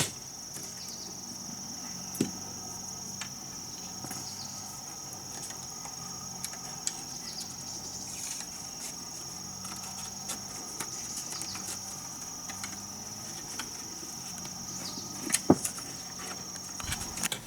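Steady high-pitched insect chirring, like crickets, that stops shortly before the end, with a few scattered knocks, one about two seconds in and a small cluster about fifteen seconds in.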